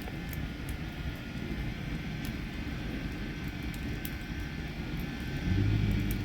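A steady low rumble like a distant engine, swelling briefly with a low hum near the end, with sparse faint crackles from a burning fatwood campfire.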